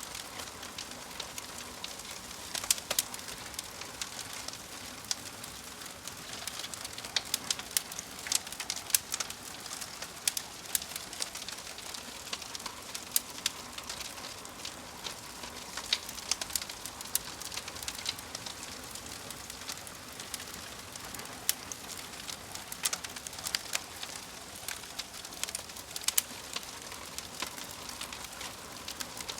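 Wood fire crackling, with irregular sharp pops and snaps, several a second at times, over a soft steady hiss.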